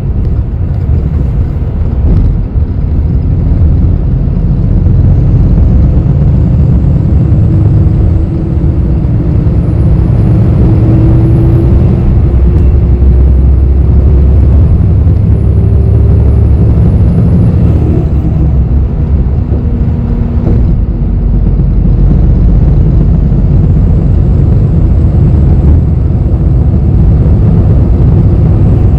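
Low rumble of engine and road noise inside a city bus's cabin while the bus drives, with a faint whine that climbs slowly in pitch for about ten seconds in the middle.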